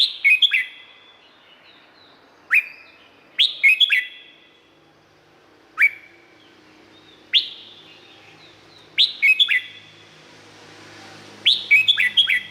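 Red-whiskered bulbul singing: short, loud whistled phrases of a few quick sweeping notes, repeated every second or two.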